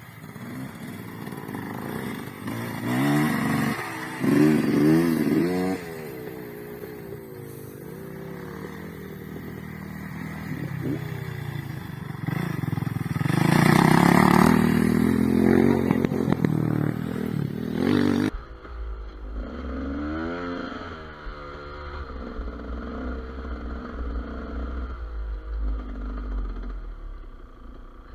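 Two-stroke enduro motorcycle engine, a GasGas EC 200, revving up and down as it is ridden, with clattering and scraping; the loudest revving comes about 13 to 17 seconds in. About two-thirds of the way through the sound cuts abruptly to a quieter, duller engine with a low rumble, revving a few more times.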